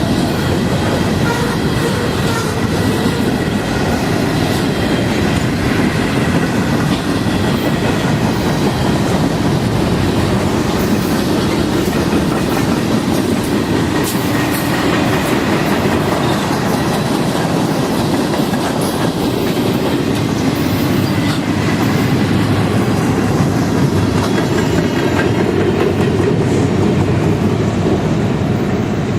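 Freight train cars rolling past on the track: a steady rumble of steel wheels on rail, with faint thin squeals from the wheels.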